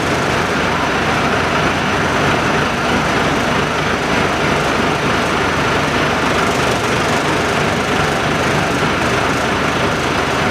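Steady, loud running of industrial machinery, an engine-like drone with a low rumble and hiss that holds unchanged throughout.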